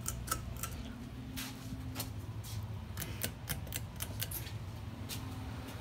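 Three ceiling fans running on low speed: a steady low motor hum with irregular light clicks and ticks scattered through it.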